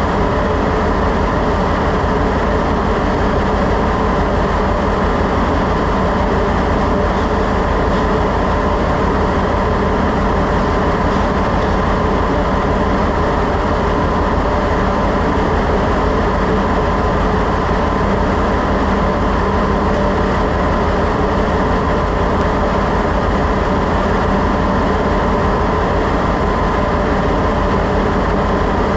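Ship's engine-room machinery running: a loud, constant drone with a few steady hums over a low rumble.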